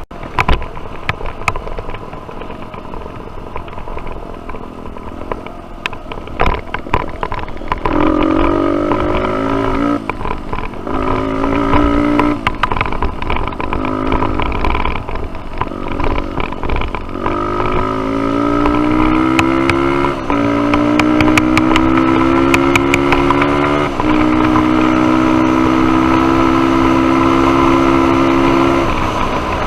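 Dirt bike engine blipped in short throttle bursts, then accelerating up through the gears. Its pitch climbs and drops back at each shift, and it holds high revs before backing off near the end. Scattered knocks and clatter are mixed in.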